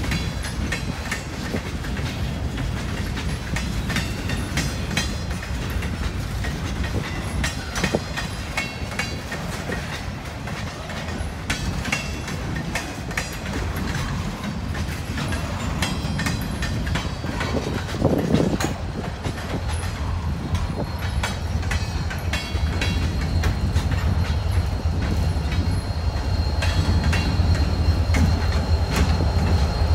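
Freight train rolling past, its steel wheels clicking over rail joints with a steady rumble. Near the end Wheeling & Lake Erie diesel locomotives come by, adding a louder low engine drone, and a faint high wheel squeal starts.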